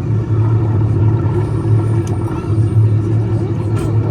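Steady low rumble and hum inside the cabin of a ride submarine underway.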